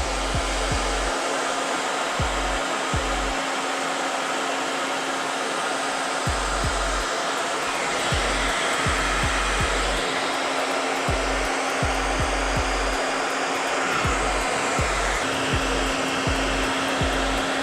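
Handheld blow dryer running steadily on its hottest setting, blowing on a bike-frame sticker to soften its adhesive. Its hum steps up slightly about fifteen seconds in.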